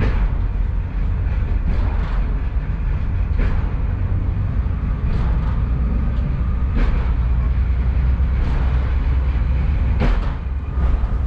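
A Class 142 Pacer four-wheeled railbus running along jointed track, heard from on board: a steady low rumble with a sharp clack from the wheels crossing a rail joint about every one and a half to two seconds.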